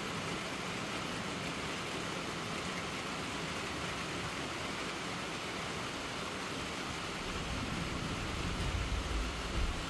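Heavy rain falling steadily: an even, constant hiss. Over the last two seconds or so a low rumble swells up beneath it.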